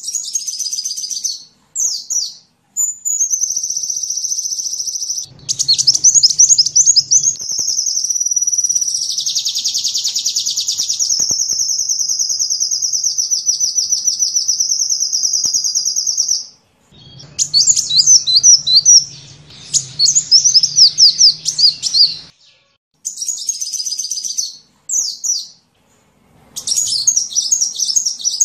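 Sunbird song: rapid high-pitched twittering and trills, with one long unbroken trill from about five seconds in until about sixteen seconds. The song comes in passages that stop abruptly, with short silent gaps between them.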